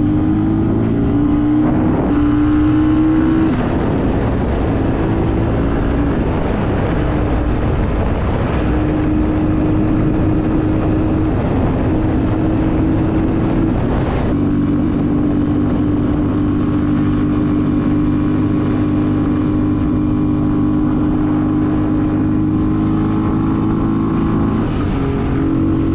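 Engine of a moving vehicle running steadily, its pitch stepping up and down a few times as it changes speed, over a continuous rushing road and wind noise that eases about halfway through.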